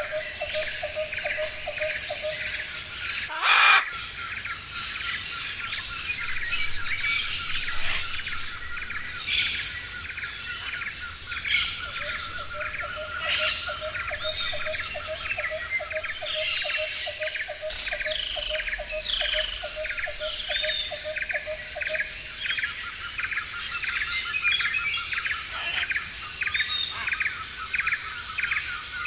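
A flock of parrots chirping and chattering, many short calls overlapping, over a rapid pulsing trill. One sharp click about three and a half seconds in.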